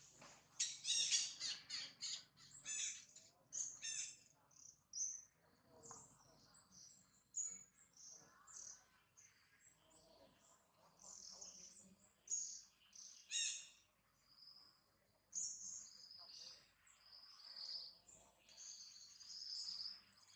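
Birds chirping: many short, high calls throughout, loudest as quick runs of notes about a second in and again about thirteen seconds in.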